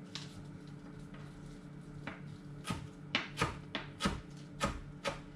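Fresh coriander being cut: a string of short, sharp clicks at an uneven pace, starting about two seconds in, over a steady low hum.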